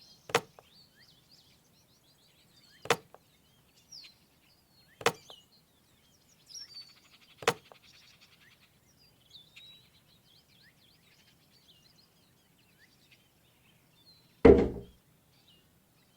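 Wood being struck with a tool: four sharp single knocks about two and a half seconds apart, then a heavier, longer impact near the end. Faint birdsong chirps behind.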